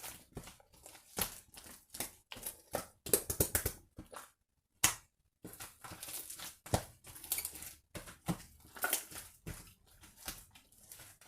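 Slime mixed with angel clay being squished and kneaded by hand: irregular wet, sticky clicks and crackles, with a short pause about four seconds in.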